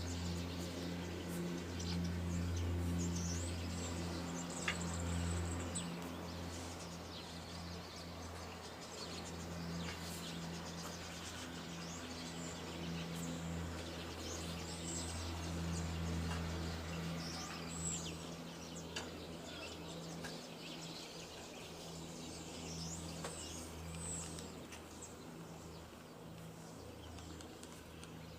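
Small birds chirping and twittering, with short high chirps scattered throughout. Under them runs a low, steady droning hum that fades gradually over the second half.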